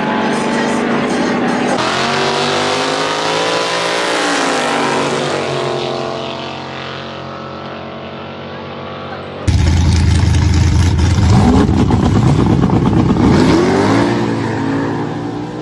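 Vehicle engine running with its pitch gliding up and down, fading away; about halfway through it cuts abruptly to a much louder engine revving hard, its pitch rising and falling, as at a drag race.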